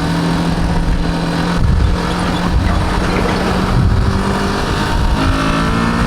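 BMW G310GS single-cylinder motorcycle engine running at steady road speed over wind and road noise. About five seconds in, its note steps up and keeps rising as the bike accelerates.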